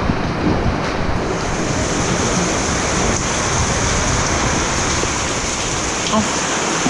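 Heavy rain pouring steadily in strong wind, with wind rumbling on the microphone; a higher hiss joins about a second in.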